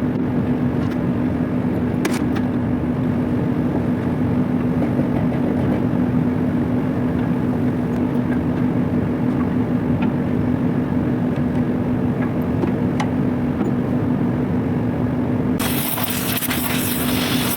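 Haver rotary packing machine running with a steady hum and a few light clicks. A hiss starts about two seconds before the end and carries on over the hum.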